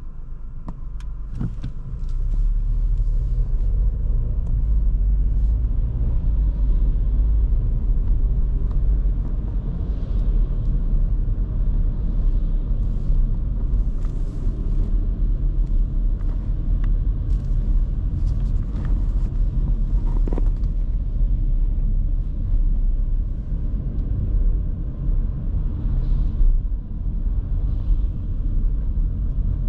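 Cabin sound of a 2023 Škoda Kamiq's 1.0 TSI three-cylinder turbo petrol engine and tyres on the move: a steady low rumble that grows louder about two seconds in, with a few light knocks.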